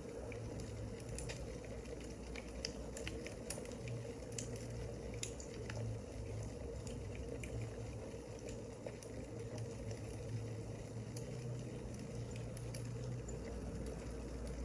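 Wood fire crackling: scattered sharp pops and snaps over a steady hiss and hum.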